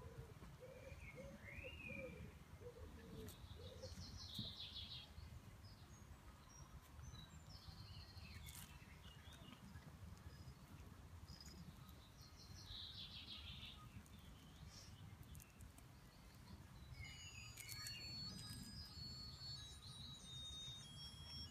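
Faint outdoor ambience: scattered birds chirping over a low, steady background rumble, with a burst of busier high twittering near the end.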